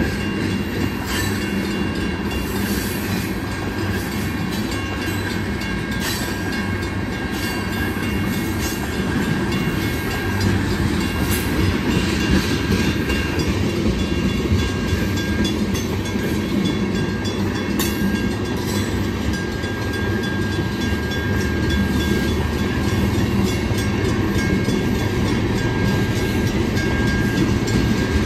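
A train rolling past, with continuous wheel and rail noise and faint clicking over the rail joints. A few faint, steady high tones run through it, and it grows slightly louder partway through.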